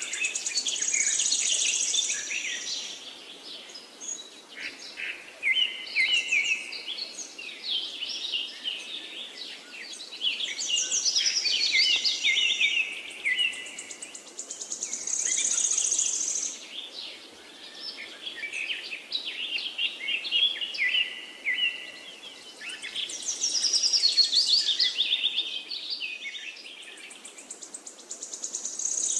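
Birds singing, their songs coming in bursts every four to five seconds, each mixing lower stepped whistled notes with a high rapid trill.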